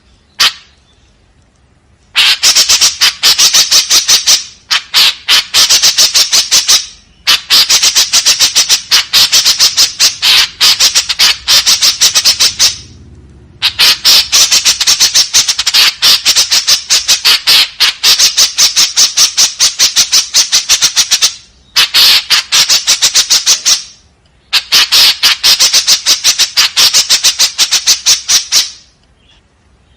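White-breasted woodswallow (kekep babi) giving its harsh, rapid-fire chattering call: long runs of fast, sharp, scratchy notes in bouts of two to eight seconds, with short pauses between them.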